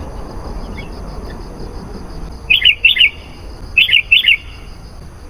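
Sooty-headed bulbul calling: two loud double-note phrases, the second about a second after the first, over a steady faint high-pitched tone.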